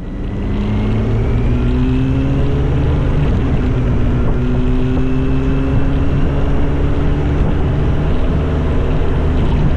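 Motorcycle engine running under way, its pitch climbing slowly and dropping back a couple of times as it shifts through gears, over road and wind noise.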